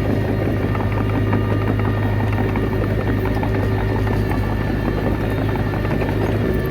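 Komatsu D21A bulldozer's diesel engine running steadily.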